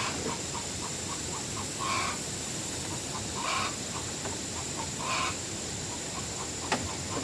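A bird calling over and over, one call about every second and a half, with quick short pips between the calls and a steady high-pitched whine underneath. A single sharp click comes near the end.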